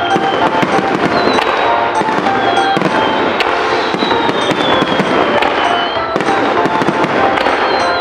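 Fireworks display in full swing: a dense, continuous crackle of bursting shells with many sharp pops, with music playing underneath.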